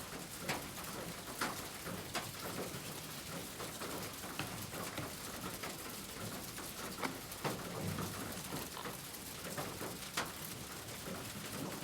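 Oil pastel stick rubbing and tapping on kraft paper: soft scraping strokes with scattered short clicks.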